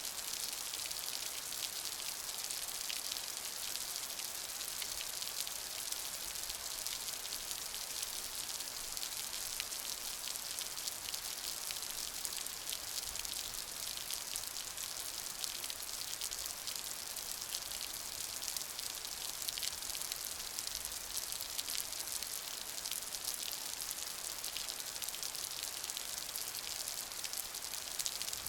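Steady rain falling: a dense, even hiss of countless drops, strongest in the high range and unchanging in level.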